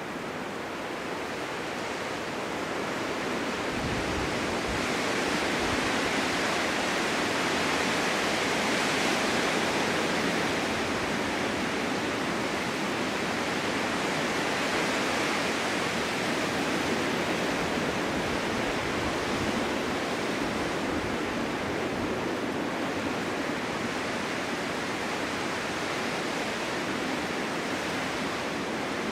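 Snowstorm wind rushing steadily across open ground, a continuous gust that swells over the first several seconds, then eases a little and holds.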